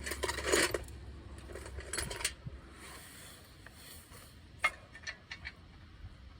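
Loose metal nuts and bolts rattling in a parts bucket, in short bursts over the first couple of seconds, followed by a few light metal clicks.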